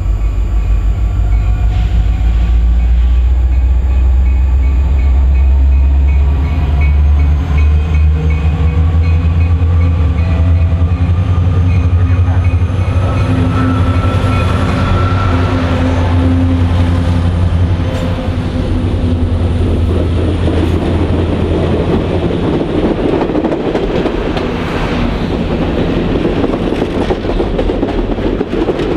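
CSX diesel locomotives pass close by with a loud, heavy engine rumble. From about twenty seconds in, this gives way to the steady rolling rush and wheel clatter of stainless-steel passenger cars going past.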